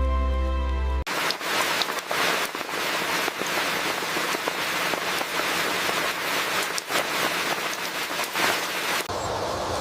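Soft music cuts off about a second in, giving way to heavy rain pattering with many sharp drop hits. Near the end it changes abruptly to a steadier rushing noise.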